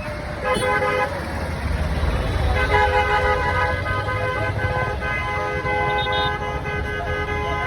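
Vehicle horn sounding: a short toot about half a second in, then a long held blast of about five seconds, over a low engine rumble.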